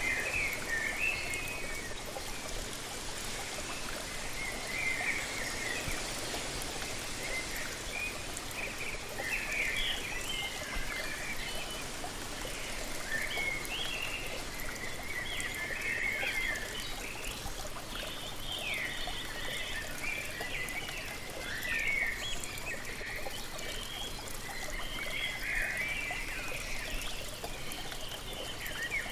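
Steady rush of falling water from a waterfall, with small birds chirping and singing in short, frequent high phrases over it.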